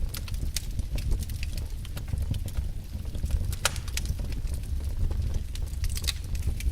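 Wood fire burning in a fireplace: a steady low rumble of flames with irregular sharp crackles and pops, one louder pop just after halfway.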